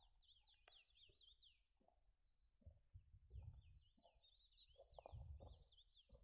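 Near silence with faint bird song: a quick run of high chirps and short falling whistles, broken by a few low muffled thumps.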